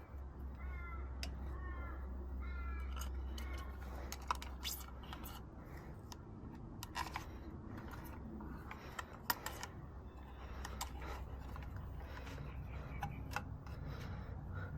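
A bird calling about five times in quick succession in the first few seconds, over a steady low hum that fades about two-thirds of the way through. Scattered sharp clicks and taps follow, like small tools or parts being handled.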